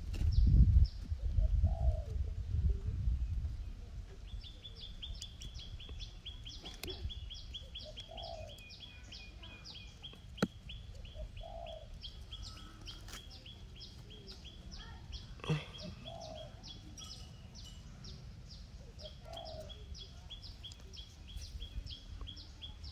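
Birds calling: long runs of rapid high chirps, with a short lower call repeating every few seconds. A low rumble fills the first few seconds, and two sharp clicks come near the middle.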